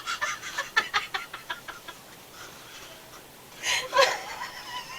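A woman giggling uncontrollably: a rapid run of short giggles in the first two seconds, a pause, then a higher squeal of laughter about four seconds in.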